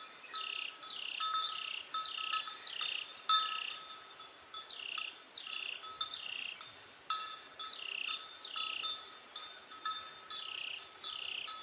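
A bird calling in short falling whistled notes, mostly in runs of three, with bright chime-like ringing tones struck again and again beneath them.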